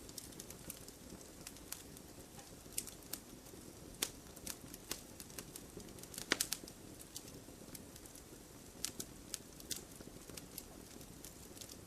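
Wood fire crackling: irregular sharp pops and snaps from burning logs, with a quick cluster of louder snaps about six seconds in, over a low steady hiss.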